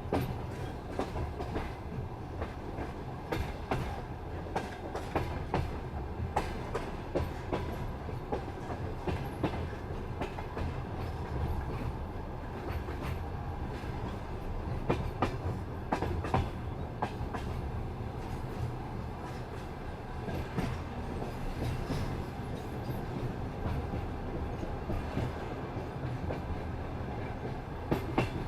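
Passenger train coach wheels rolling over jointed rail at speed: a steady low rumble with clickety-clack knocks as the wheelsets cross the rail joints, coming in little groups every few seconds.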